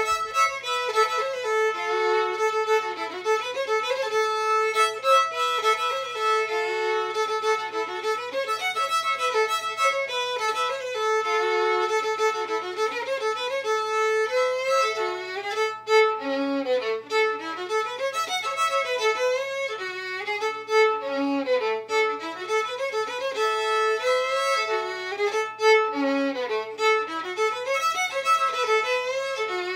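Fiddle playing a tune, the melody moving over a note held steady underneath.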